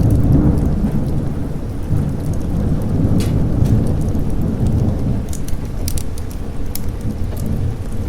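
A long roll of thunder that breaks in suddenly and rumbles for about seven seconds, slowly fading, over steady rain. Scattered sharp crackles run throughout.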